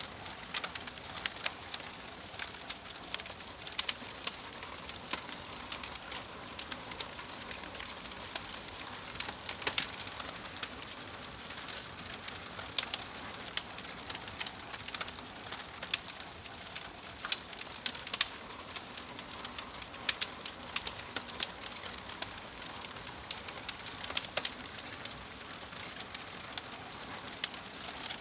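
Wood fire in a fireplace crackling, with irregular sharp pops over a steady soft hiss.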